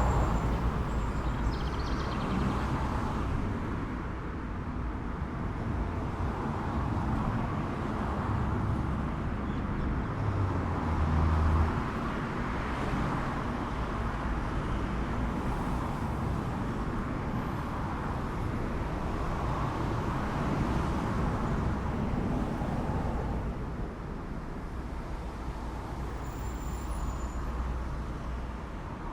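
Steady ambient rumble of road traffic, with no single vehicle standing out.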